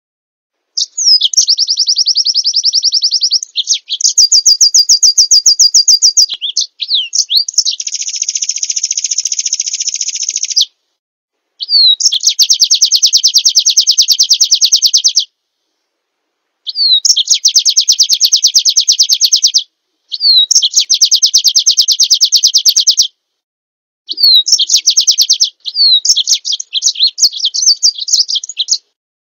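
Small songbird singing a series of high, very rapid trills, each two to four seconds long and usually opened by a quick downslurred whistle, with short clean silences between them.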